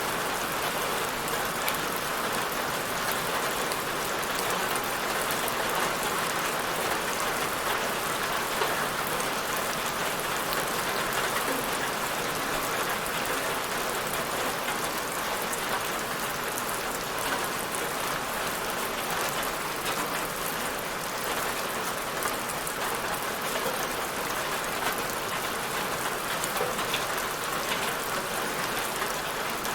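Steady rain falling on a surface: a dense, even hiss of many drops, with no thunder or change in strength.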